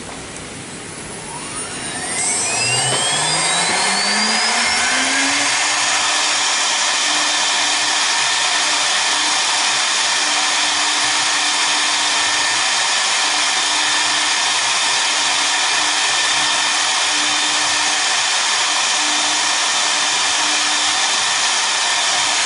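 Twin spindle motors of a double-head CNC router spinning up, a whine rising in pitch over about four seconds, then running steadily at speed as the job starts.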